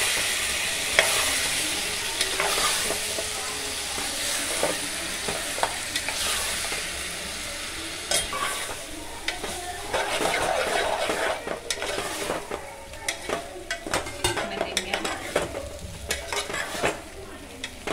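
Chopped tomatoes sizzling in hot oil in a metal pot, the sizzle dying down over the first several seconds. From about eight seconds in, a metal spoon scrapes and clinks against the pot as the tomatoes are stirred.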